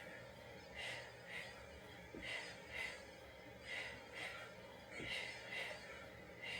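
A woman's faint, short breaths, coming in pairs about twice a second, in time with a Pilates scissor leg exercise.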